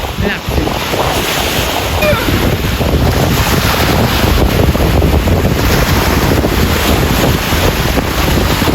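Wind buffeting the microphone over waves washing onto a lake beach, a steady loud rush with a low rumble.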